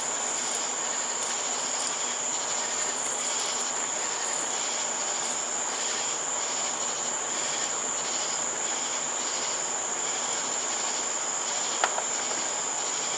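Night insect chorus of crickets: a steady high trill with a pulsing chirp over it. A single sharp click comes near the end.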